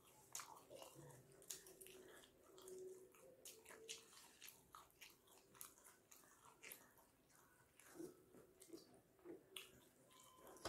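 Faint, wet chewing of steamed chicken momos, with many small irregular mouth clicks.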